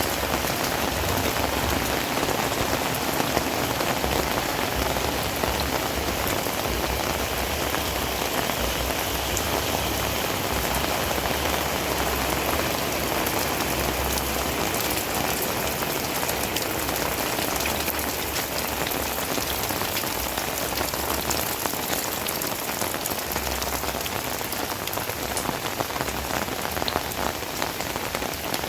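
Heavy rain falling steadily, a dense even hiss dotted with many close drop impacts.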